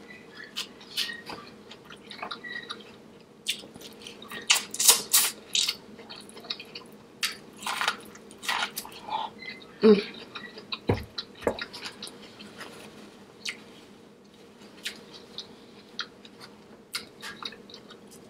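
Close-up mouth sounds of someone eating seafood boil: wet chewing and lip smacks, with many short sharp clicks and squelches. They are thickest about four to six seconds in, and there are a couple of low knocks around eleven seconds.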